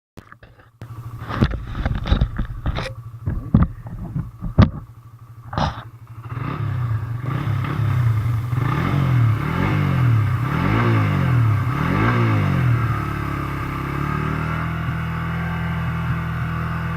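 Suzuki GSX-S150's single-cylinder engine running, its pitch rising and falling several times in a row, then settling steadier. It comes in about six seconds in, after a few sharp knocks and thumps.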